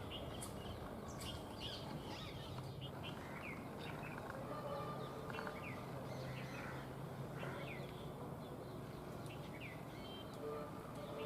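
Small birds chirping in the background: many short, quick downward-sliding chirps scattered throughout, over steady outdoor noise with a low hum.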